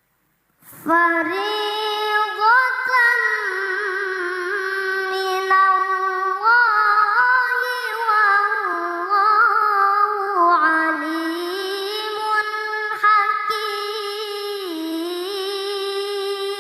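A young child reciting the Quran in melodic tilawah style. A high voice sings one long unbroken phrase, beginning just under a second in, with slow glides and ornamented turns in pitch.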